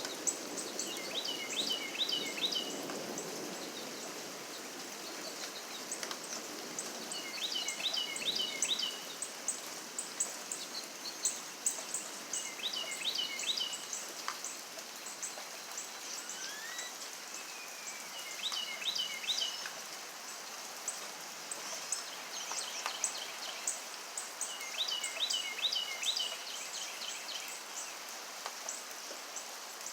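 Steady rain with birds singing: one bird repeats a short phrase of quick falling notes about every six seconds, over frequent high chirps.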